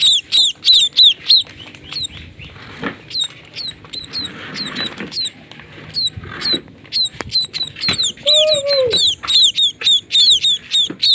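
Baby maya bird chirping: a rapid run of short, high, falling chirps, several a second, which thins out for a few seconds in the middle and then picks up again. About eight seconds in, a lower, arching sound lasting about a second comes in over the chirps.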